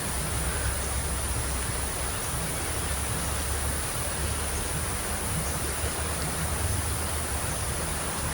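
Steady wash of heavy rain and rushing river water: an even hiss with no breaks.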